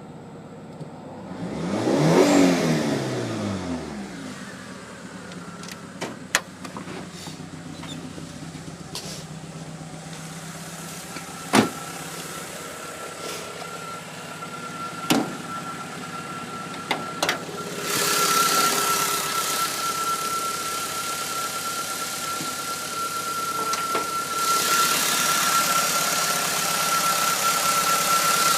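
Engine running: its revs drop away about two seconds in, then it settles to a steady run with a high whine. Several sharp clicks come in the middle, and a louder rushing noise comes in near the two-thirds mark and again near the end.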